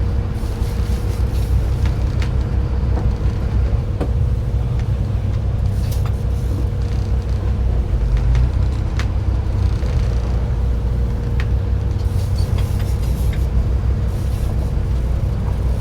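Fishing boat's engine running steadily: a continuous low drone with a steady hum above it and a few light clicks.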